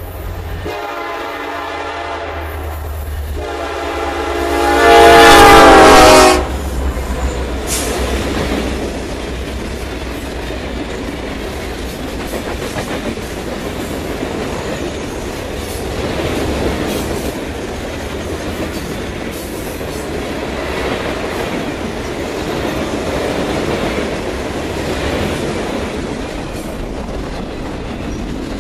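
Third-generation Nathan K5LLA horn on a Norfolk Southern SD70ACe locomotive, sounded in blasts as the train nears the crossing. The last, loudest blast cuts off about six seconds in as the locomotives pass. After that a long freight train rolls by with a steady rumble and the clickety-clack of its wheels over the rail.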